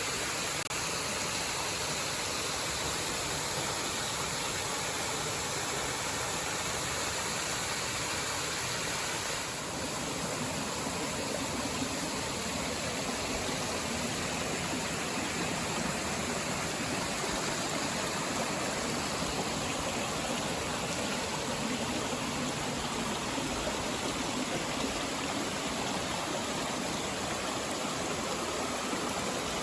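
Steady rushing water, an even hiss and gurgle with a brief dip about nine seconds in.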